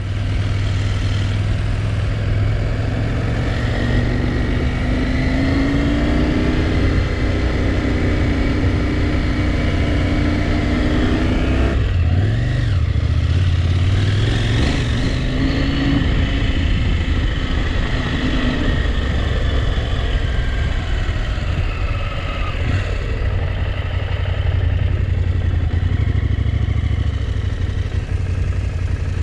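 Motorcycle engine running under way, its pitch rising with the throttle and dropping sharply about twelve seconds in, with rushing noise over it throughout.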